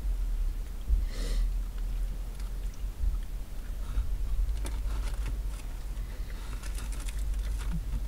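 Chewing and the crinkle of a paper sandwich wrapper being handled, in short scattered bursts, over a low steady rumble inside a car.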